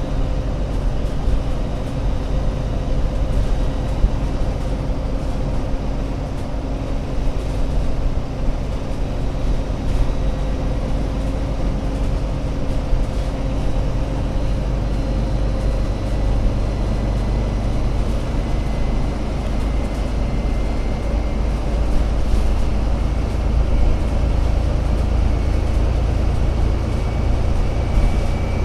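Alexander Dennis Enviro500 MMC Euro 6 double-decker bus engine running, with a steady low rumble. A faint high whine rises slightly in pitch over the last several seconds.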